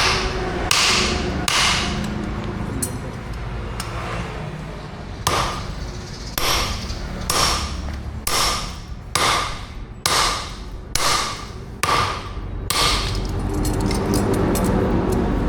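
Hammer striking steel on an anvil: two blows, a pause of a few seconds, then a run of about a dozen ringing blows roughly every half second to second, over a steady low hum.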